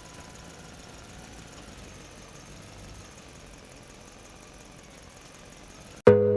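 A faint, steady machine hum, then music with plucked notes starts abruptly about six seconds in.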